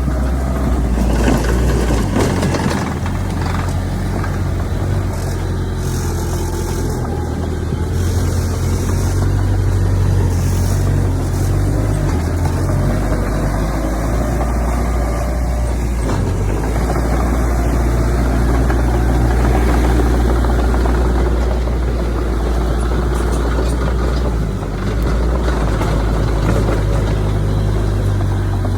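Heavy diesel engine of earthmoving machinery running steadily, with a deep low hum that dips and shifts briefly at a few points as the load changes.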